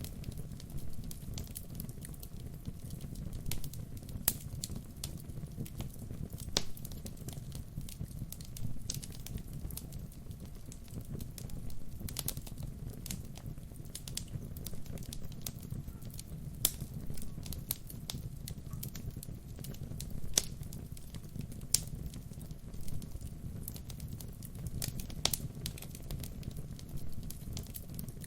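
Wood fire burning: a steady low rumble of flames with frequent, irregular sharp crackles and pops from the burning logs.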